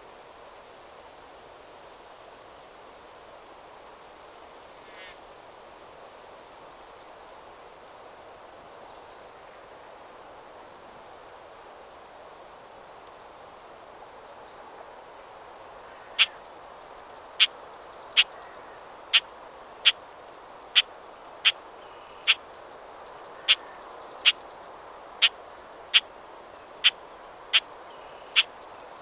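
Steady wind rustling through forest trees, with faint distant birdsong. About halfway through, a bird starts giving a sharp, short single-note call, loud and close, about once a second, fifteen times.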